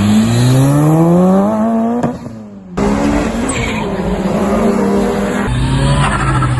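Mitsubishi Lancer Evolution engines under hard acceleration. The pitch climbs steeply for about two seconds, drops away briefly, then holds high and steady, with another shift about five and a half seconds in.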